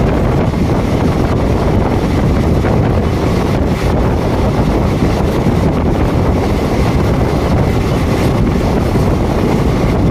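Steady wind buffeting the microphone over the running rumble of a moving passenger train.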